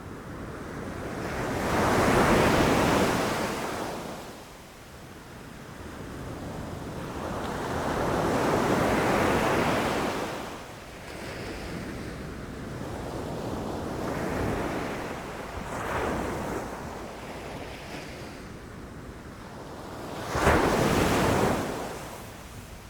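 Ocean waves breaking on the shore, the surf swelling and washing back in several surges, with the sharpest and loudest crash about 20 seconds in.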